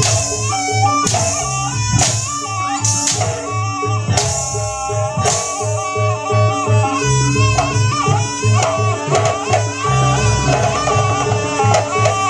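Live jaranan buto accompaniment: drums over a fast steady low beat with a wavering melody line, and sharp crashing strikes about once a second during the first half.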